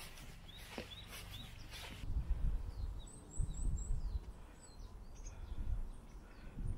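Small songbirds chirping in short, quick calls: rising chirps in the first two seconds, then a fast run of four high chirps about three seconds in. From about two seconds in, a low rumble sits under the birds.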